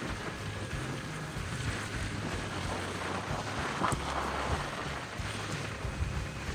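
A vehicle driving: a steady low engine and road rumble with wind noise, and one sharp click about four seconds in.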